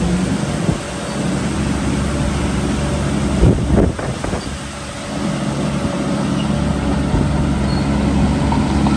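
Heavy diesel engine of earthmoving machinery running steadily, with a loud, rough crash about three and a half seconds in. The engine note drops for a second and then picks up again.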